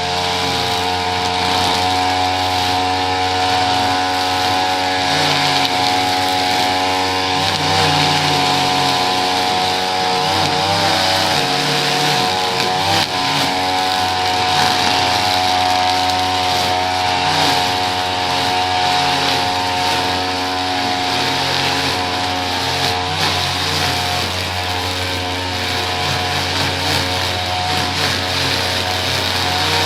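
Small petrol engine of lawn-care equipment running steadily at a constant speed.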